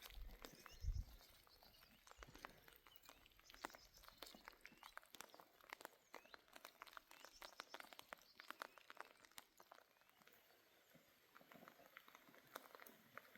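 Faint, irregular clicking and knocking, with a couple of low thumps about a second in.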